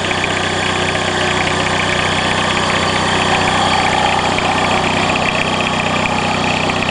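Peugeot 306 1.9 turbo diesel engine running steadily at low revs.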